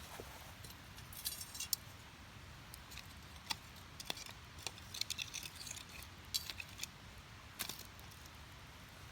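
Split firewood burning in a small fire pit, crackling and snapping in irregular sharp pops and short clusters of crackles over a faint steady hiss.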